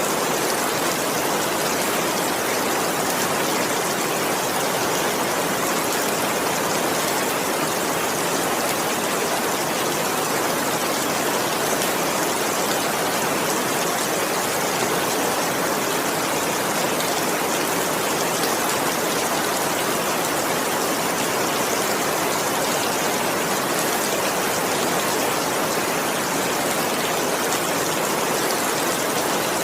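Steady, even rain with a dense hiss of falling water and no separate drops standing out.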